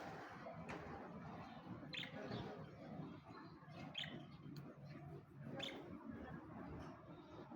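Pet budgerigars giving three short, faint chirps about two seconds apart over a low background hum.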